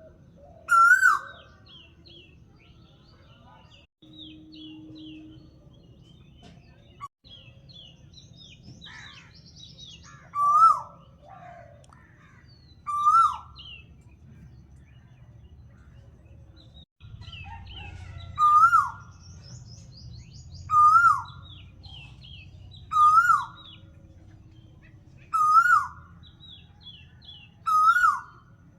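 Birds calling. One bird repeats a loud, short call many times, about every two seconds in the second half, while other birds give higher, quicker chirps in between over a low steady rumble.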